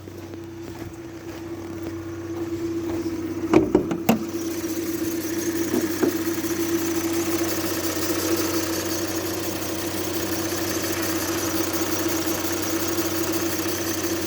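Hyundai i40's 2.0-litre G4NA four-cylinder petrol engine idling steadily while it warms up, with no knocking. A few sharp clicks come about four seconds in. After that a steady high rustle grows louder, which the owner puts down to a rustling roller (pulley).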